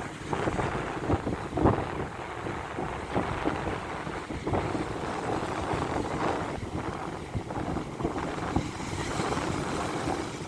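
Strong wind buffeting the microphone in uneven gusts over the rush of big waves breaking.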